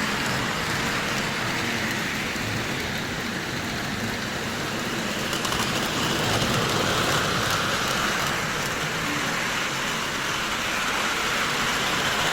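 Lionel model trains running on the layout's track: a steady whirring rumble of motors and wheels on metal rail.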